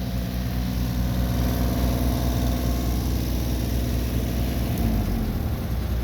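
Engine of a machine running steadily at a constant speed.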